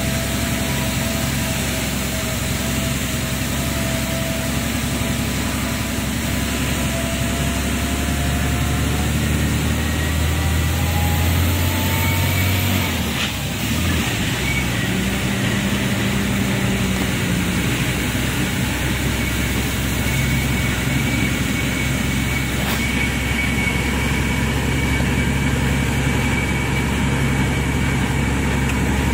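A lorry's engine running steadily on a ghat climb, with a short break and change in the engine note about halfway through.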